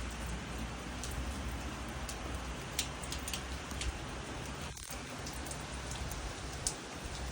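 Rain falling steadily, with a few sharp drips landing close by now and then.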